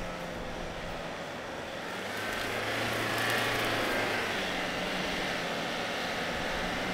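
A 4WD engine running under load with a steady drone and a rushing noise, growing louder about two seconds in and then holding steady.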